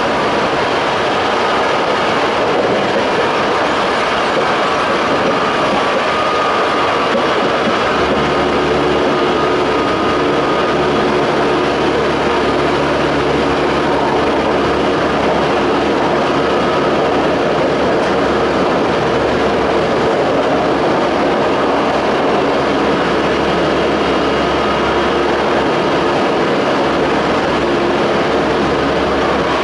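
Toei 5300 series train with Hitachi-built Mitsubishi GTO-VVVF traction equipment running at speed, heard from inside the car: a steady, loud rumble of wheels on rail with a few steady tones above it. A low steady hum joins about eight seconds in.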